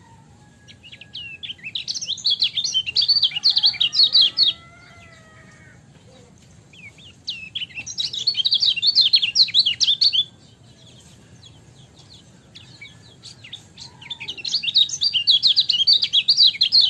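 Kecial kuning white-eye singing: three bouts of rapid, high-pitched twittering chirps, each lasting about three to four seconds, with short pauses between them.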